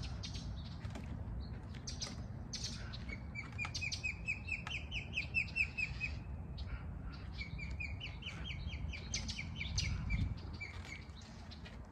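Songbirds chirping, with two quick runs of rapidly repeated notes in the middle, over a low steady rumble.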